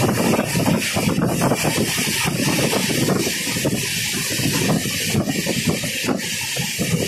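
Steady, loud rush of wind and wheel-on-rail noise from the Danapur–Secunderabad Humsafar Express running at speed, heard from on board.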